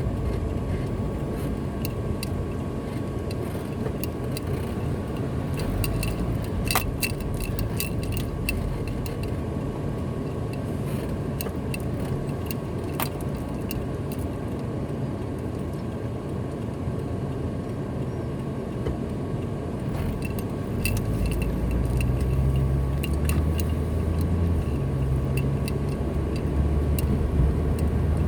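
A car driving along a road: steady engine and tyre rumble with scattered light clicks and rattles. The low rumble grows heavier about two-thirds of the way through.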